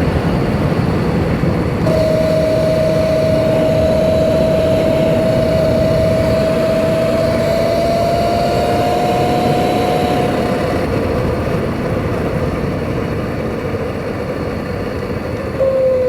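Sur-Ron Light Bee X electric dirt bike on the move. The motor gives a steady whine that comes in about two seconds in, creeps slightly higher in pitch, and fades out after about ten seconds. Underneath is a constant rushing noise from wind and the drive chain, which is very loud on this bike. Near the end a lower whine falls in pitch as the bike slows.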